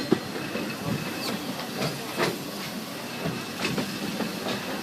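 Narrow-gauge steam train heard from aboard, running with a steady hiss and irregular clacks and knocks from the wheels and cars, the sharpest right at the start.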